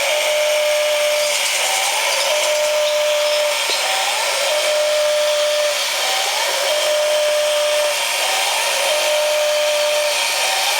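Small electric motor and gearing of a model dump truck running under load as its ramp is raised: a steady whir with a whine that glides up and settles back about every two seconds.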